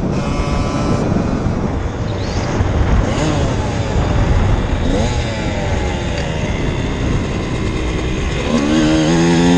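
Dirt bike engine running under heavy wind rumble, its pitch rising and falling with the throttle; near the end the engine note gets much louder and climbs as the bike accelerates.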